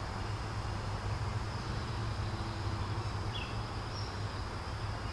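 Steady outdoor ambience by a creek: a constant high, thin insect drone over a low steady rumble, with two brief chirps about three and four seconds in.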